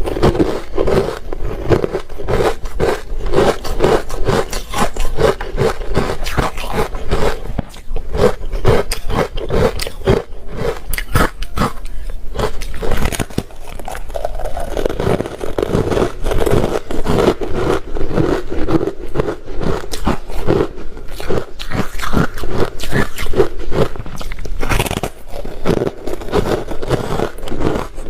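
Close-miked ice being bitten and chewed, a dense run of crunching and crackling that goes on without a break.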